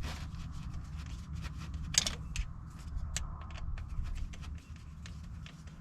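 Light clicks and scrapes of hand work tightening a hose clamp on the rubber fuel line beside a new in-line fuel filter, over a low steady rumble.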